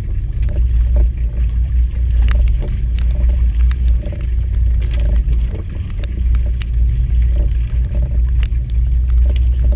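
Low, uneven rumble aboard a small fishing boat at sea, with scattered sharp ticks throughout.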